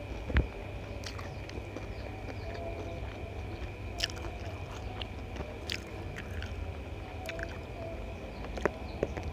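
Close-miked chewing and wet mouth sounds of someone eating rice vermicelli and rice by hand, with scattered sharp clicks; a knock about half a second in is the loudest sound. A steady low hum and a faint steady high tone run underneath.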